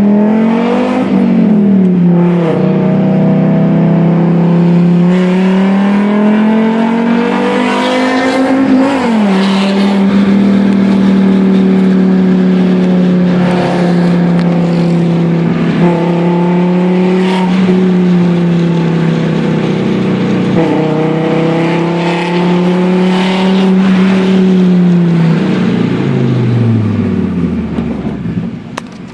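Fiat Marea five-cylinder engine through a full 2.5-inch exhaust, pulling through the gears: its note rises several times and drops sharply at each shift. Near the end the pitch falls away and it gets quieter as the car slows.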